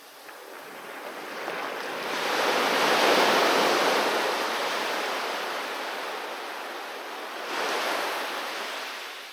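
Sea waves washing onto the shore. One wave breaks about two seconds in, rushes loudest, then slowly fades. A smaller second wash follows near the end.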